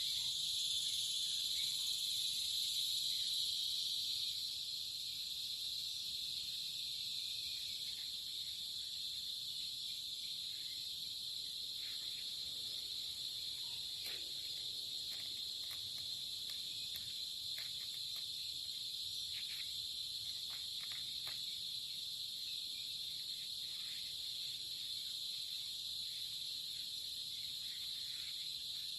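A dense chorus of insects, such as crickets, trilling steadily at a high pitch, easing slightly about four seconds in, with a few faint clicks.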